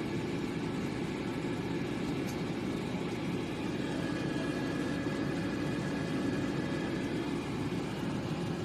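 Air fryer running: a steady whirring rush from its fan.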